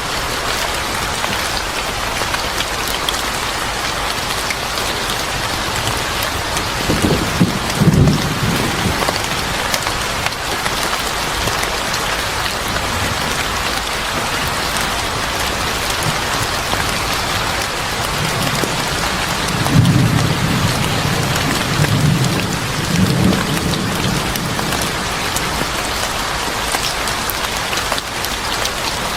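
Steady heavy rain, with low thunder rumbling twice: briefly about seven seconds in, and longer around twenty seconds in.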